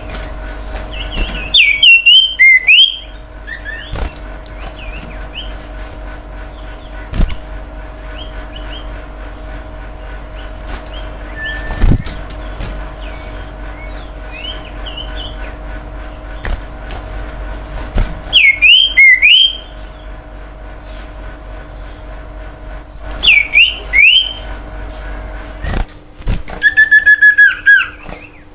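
Common iora (cipoh) singing: loud groups of swooping whistled notes, once near the start, twice past the middle and in a quick run of repeated notes near the end, with softer calls between. A steady low hum runs underneath.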